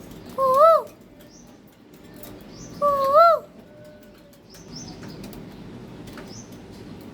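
Parrot whistling twice, about two seconds apart, each a short pitched whistle that rises and then drops, with faint high chirps between.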